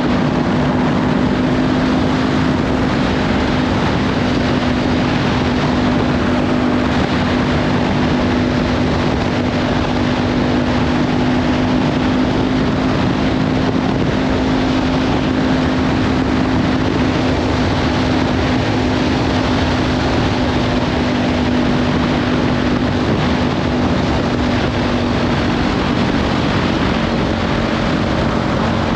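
Kawasaki Ninja 500 parallel-twin engine through a Leovince slip-on exhaust, running at a steady cruising speed, heavily overlaid with wind buffeting on the helmet-mounted microphone. The engine note holds steady, then drops slightly near the end.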